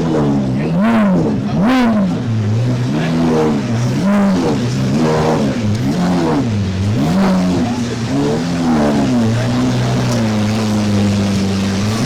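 Car engine revved over and over, its pitch rising and falling about once a second, then held steady for the last few seconds.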